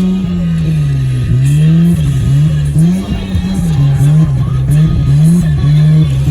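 Turbocharged 6-port 13B rotary engine of a Mazda RX-7 FC revving hard, its pitch rising and falling about one and a half times a second as the throttle is worked on and off.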